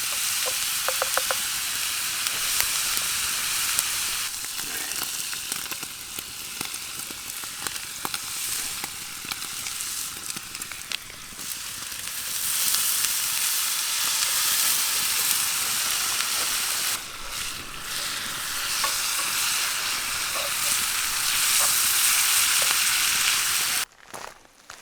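Ground beef frying and sizzling in a pan over a campfire, with the clicks of a utensil stirring it now and then. The sizzle cuts off abruptly near the end.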